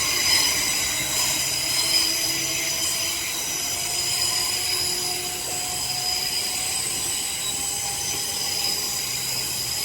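Class 387 electric train pulling out of the station: high-pitched wheel squeal over the rail noise, with a faint motor whine slowly rising in pitch as it picks up speed.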